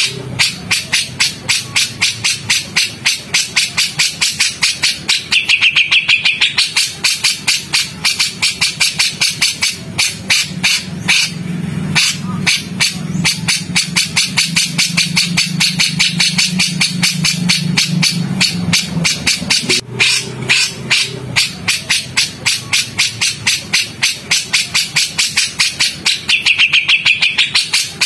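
Recorded songbird calls of the kind used to train magpie-robins: long runs of harsh, rapidly repeated chattering notes, several a second, with a steadier low drone beneath them in the middle stretch.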